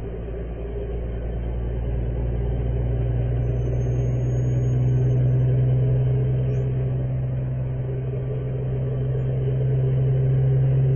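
Steady low drone of a vehicle's engine and road noise while driving, swelling slightly about halfway through and again near the end.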